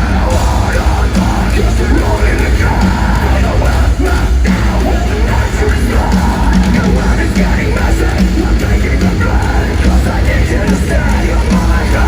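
Live metalcore band with electronic dance beats playing loud, with heavy bass and a steady pounding beat, recorded from the arena crowd.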